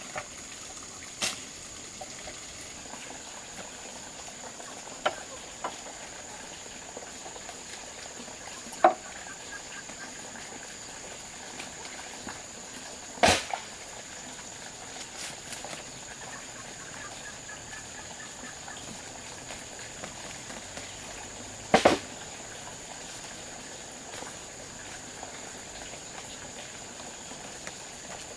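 Steady high-pitched drone of insects, with about five sharp knocks or taps scattered through it, the loudest about halfway through and again about three-quarters of the way in.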